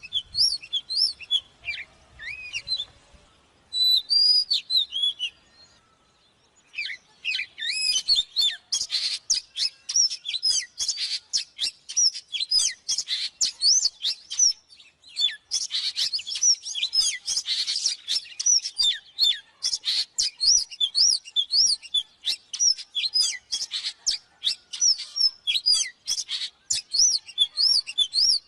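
Oriental magpie-robin singing: a fast, varied run of sweeping whistled notes, with a short pause about six seconds in before the song picks up again densely.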